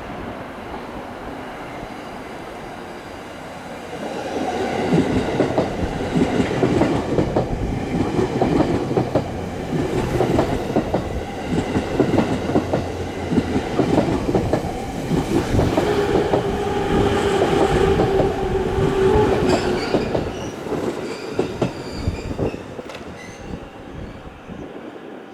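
E257 series electric train pulling into the station: the wheels clatter over the rail joints, a steady squeal rises for a few seconds past the middle as it brakes, and the sound fades near the end as it slows.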